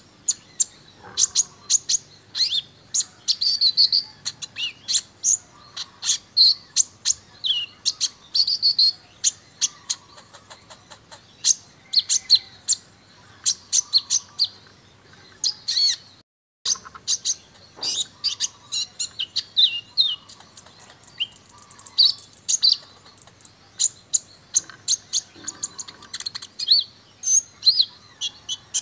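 Kolibri ninja (sunbird) singing a fast, full song of sharp high chirps and short trills, one burst after another, with a brief break about halfway through.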